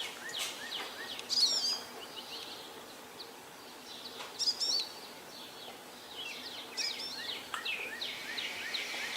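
Wild birds singing: short high warbling phrases come about every three seconds, around a second and a half in, at four and a half seconds and near seven seconds, between quieter repeated short chirps.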